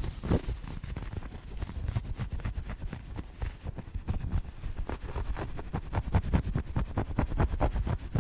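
Rapid scratching and brushing close to the microphone: dense runs of clicks and rubs, many a second, with a low rumble. It gets denser about halfway through.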